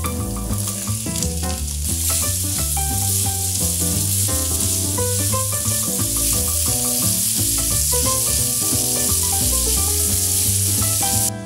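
Diced red peppers and onions sizzling in oil in a frying pan as they are stirred with a spatula. The sizzle grows louder about two seconds in and cuts off suddenly near the end, with background music playing underneath.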